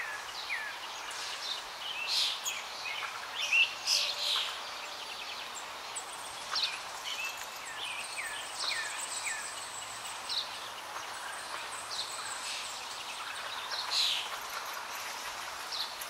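Birds calling: many short chirps and squeaky whistles, several sliding down in pitch, over a steady outdoor hiss, with a louder cluster of calls a few seconds in.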